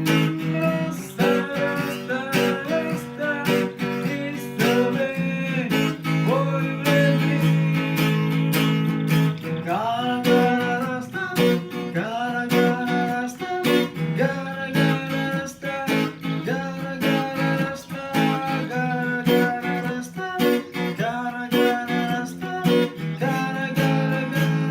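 Acoustic guitar being strummed and picked, playing chords and short melodic runs.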